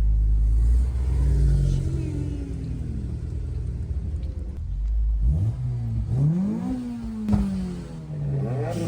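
Sports car engines accelerating hard past, their pitch rising as they rev and then falling away as they pass. There is one sharp crack a little after seven seconds in.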